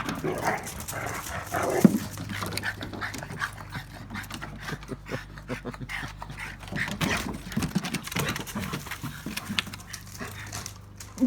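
Two dogs play-fighting: short yips, whimpers and panting, mixed with quick scuffling clicks. The loudest cry comes just before two seconds in.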